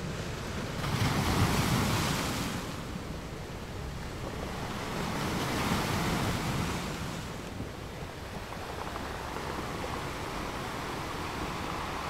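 Ocean waves crashing on rocks, a continuous rushing surf that swells twice: a loud surge about a second in and a smaller one about halfway through.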